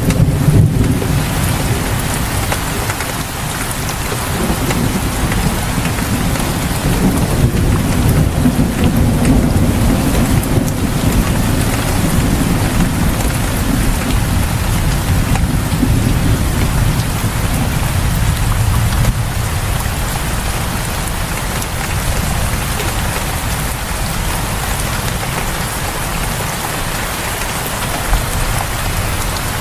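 Heavy rain pouring steadily onto surfaces in front of a house, with a deep low rumble underneath that eases off in the second half.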